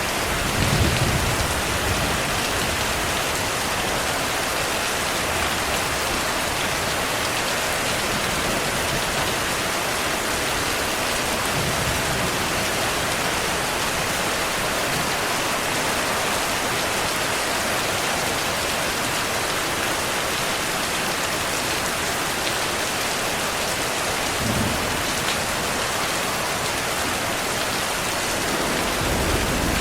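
Steady rain falling, an even hiss, with low rumbles of thunder briefly about a second in, again about 24 seconds in, and building near the end.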